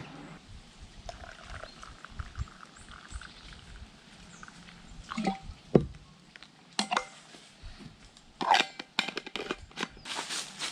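Footsteps crunching on the forest floor: a few scattered crunches and knocks, then a quicker run of steps near the end.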